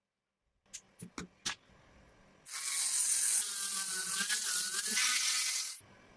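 A few sharp clicks, then a pressurised spray hissing steadily for about three seconds before cutting off, typical of an aerosol spray can or air spray at work on a model car.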